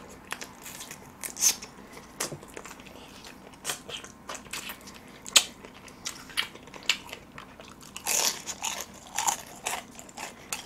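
A person biting into and chewing crispy deep-fried chicken, the batter crunching in irregular sharp crackles, with a denser run of crunching about eight seconds in.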